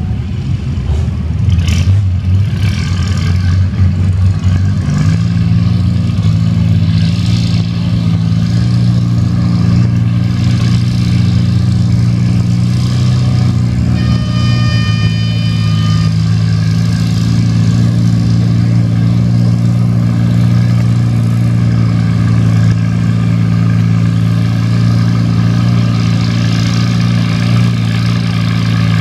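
Antique farm tractor engine running loud and steady under load, its pitch stepping up about five seconds in and then holding. A steady high tone sounds for about two seconds around the middle.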